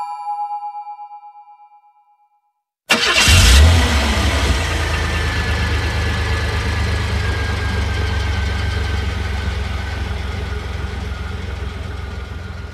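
Chime-like music notes ring out and fade. After a short silence, a car engine comes in suddenly about three seconds in, loudest at first, then runs steadily with a low hum and a faint falling whine, slowly fading.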